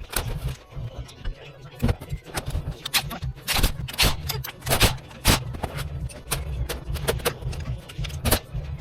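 Irregular sharp clicks and clinks of hand tools and metal parts being handled while fitting accessories to an engine, over a steady low hum.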